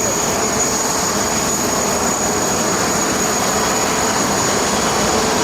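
Jet engines of a Boeing 747 arriving to land, a steady rush of noise with a thin, high, steady whine over it.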